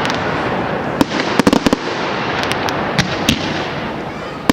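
Fireworks going off: a dense crackling hiss with a quick cluster of sharp cracks about a second in and a few single bangs later, thinning near the end.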